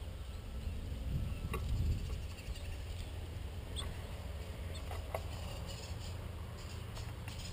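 A few light taps and scratches of birds feeding at a bird feeder, heard over a steady low rumble that swells briefly about a second in.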